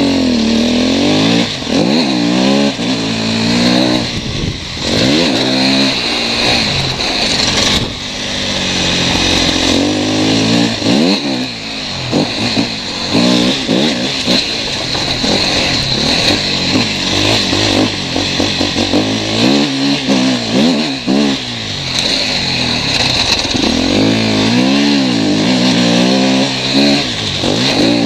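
KTM 250 EXC-F's single-cylinder four-stroke engine ridden around a motocross track, its pitch rising and falling over and over as the throttle is opened and shut through the gears.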